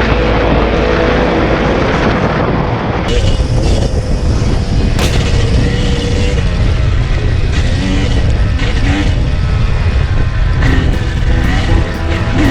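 Two-stroke dirt bike engine running along a trail, with sharp knocks and rattles from the bike going over rough ground, most often near the end.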